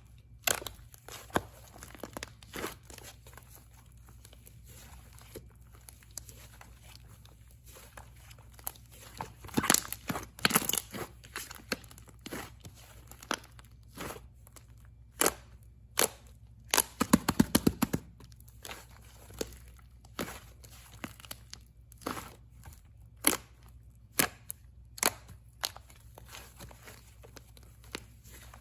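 Slime being pressed and squeezed by hand, giving scattered sharp pops and clicks as trapped air bursts. There is a short flurry of rapid pops about two-thirds of the way through.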